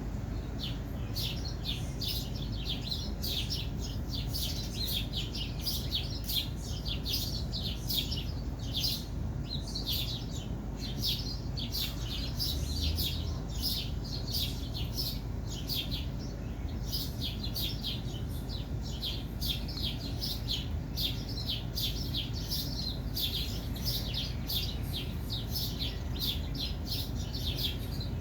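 Bird chirping continuously, short high chirps at about three or four a second, over a steady low background hum.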